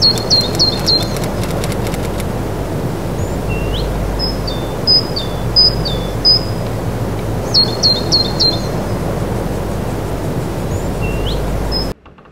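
Birds chirping: quick runs of three or four short high chirps, with a few single rising notes between them, over a steady rushing background noise. It all cuts off abruptly near the end.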